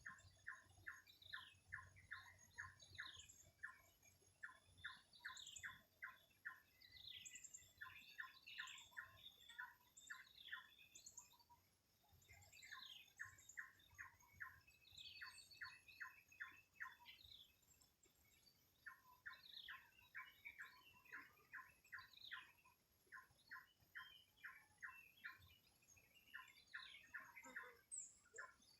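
Several birds calling together. One repeats short chirps in quick runs of about five a second, pausing between runs, while higher twittering calls come in over it.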